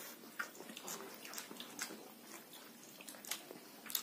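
A person chewing a mouthful of rice and boiled pork, with small wet smacking and clicking mouth sounds and a sharper click near the end.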